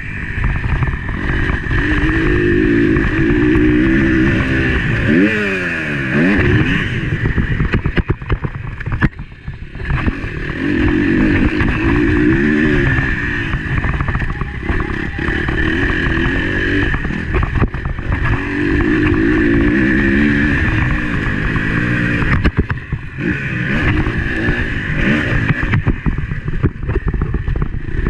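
Motocross bike engine heard from the bike itself, revving up and dropping off again and again as the rider works the throttle and gears, with short knocks and clatter from the ride. Around nine to ten seconds in, the engine falls off briefly before pulling hard again.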